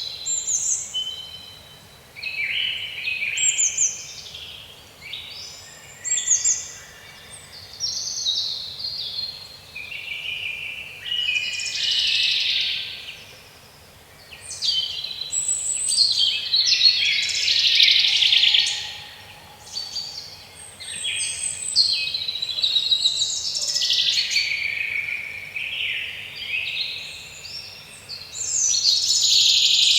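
Woodland birdsong: several songbirds singing at once, an unbroken run of overlapping chirps, trills and down-slurred whistles.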